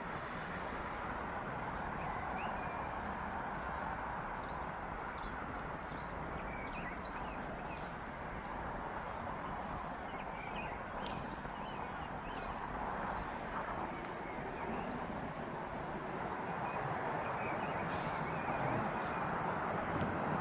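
Outdoor ambience: small birds chirping repeatedly over a steady background rush, with faint scattered clicks.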